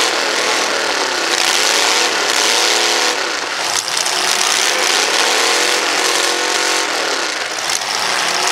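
A demolition derby vehicle's engine revving hard and repeatedly, its pitch climbing and falling back several times, about every couple of seconds, over a constant loud rushing noise.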